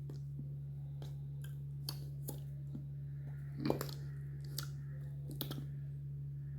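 A steady low hum under scattered small clicks and taps, the loudest a sharper knock a little past halfway through.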